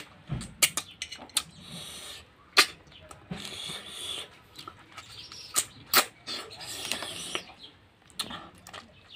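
Close-up eating sounds: chewing and lip-smacking on a mouthful of rice eaten by hand, with irregular sharp wet mouth clicks.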